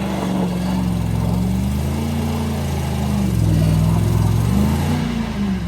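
Pickup truck's V8 engine revving up and down under load, its pitch rising and falling several times as it works through snow.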